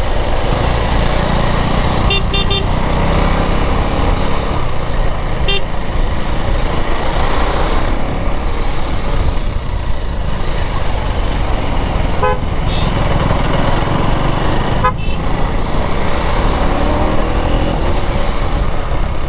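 Riding a KTM Duke 390 through city traffic: the single-cylinder engine and road rumble run steadily, with short horn toots from the traffic several times, one of them a quick triple beep about two seconds in.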